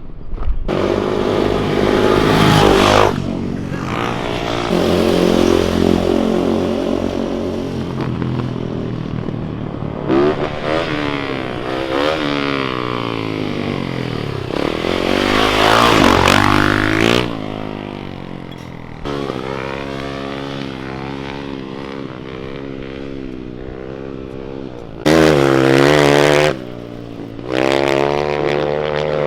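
Pontiac GTO's V8 engine revving up and down again and again under hard driving, with several loud stretches of rough, hissing noise from spinning tyres, the loudest near the end.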